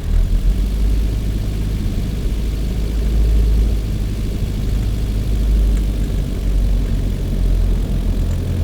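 Manual car's engine running at low revs under heavy load, a steady low drone, as the car pulls away in fifth gear with light throttle and the clutch being let out slowly.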